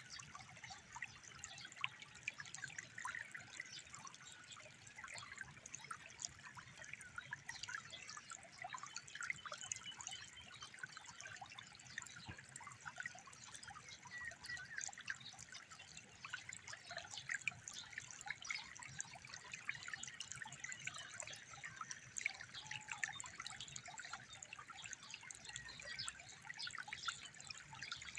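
Running water trickling steadily, a continuous patter of many small irregular splashes.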